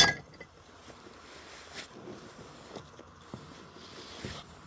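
A sharp knock right at the start, then faint background hiss with a few soft taps.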